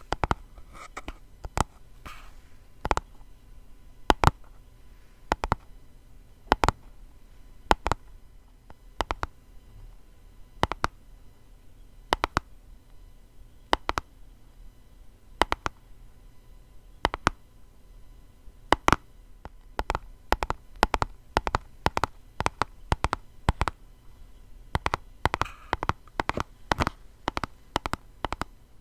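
Tapping on a food colouring box: single crisp taps about every second and a half, then quicker runs of several taps a second in the last third, with a short scratch about 25 seconds in.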